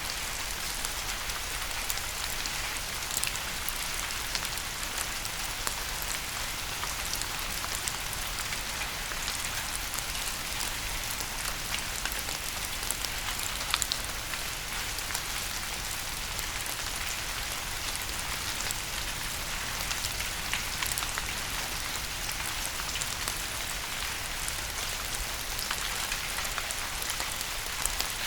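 Steady rain falling: an even hiss with many small drop taps on a surface, one tap a little louder about fourteen seconds in.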